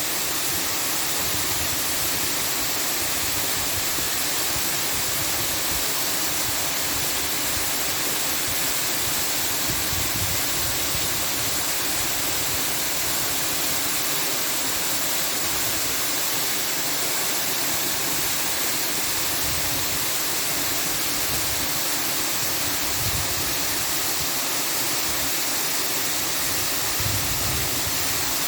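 Steady, even rushing hiss that does not change, brighter in the high range, like a waterfall or white noise.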